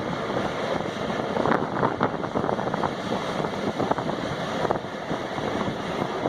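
Passenger express train rolling past at speed: a steady rush of wheels on rail, with sharp clacks now and then as wheels cross rail joints.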